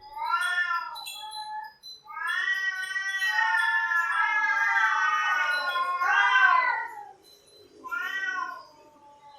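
Cats yowling: a short wavering call, then a long drawn-out yowl in which two cats' voices overlap, and another short call near the end.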